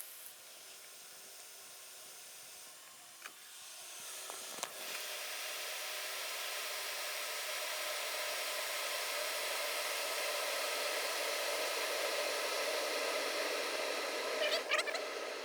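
Electric kettle heating water: a hissing that swells from about four seconds in as the water nears the boil. A few sharp clicks near the end, which fit the repaired bimetallic thermostat switching the kettle off at the boil.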